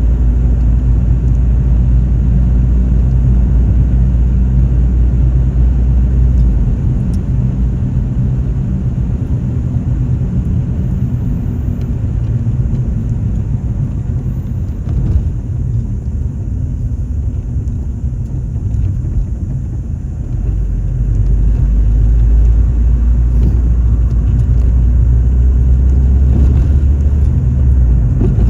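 A car on the move: a steady low rumble of engine and road noise. The deepest part of the rumble eases off about a quarter of the way in and builds back up about two-thirds of the way through.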